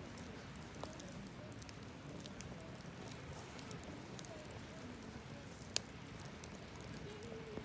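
Wood campfire crackling, with many small pops over a steady hiss and one sharper, louder pop near six seconds in.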